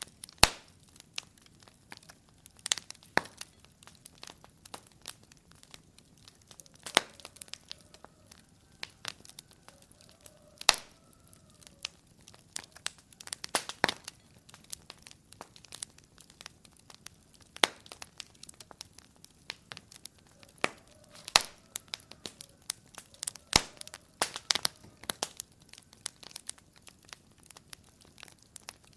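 Wood fire crackling in a fireplace: irregular sharp pops and snaps of varying loudness, a few at a time, over a quiet background.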